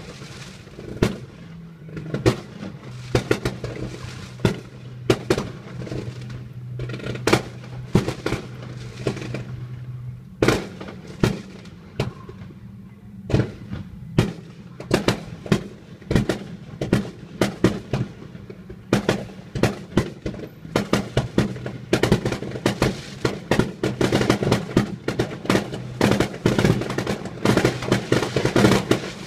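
Fireworks display: aerial shells bursting in a long series of sharp bangs, coming faster and denser in the last third. A steady low hum runs underneath.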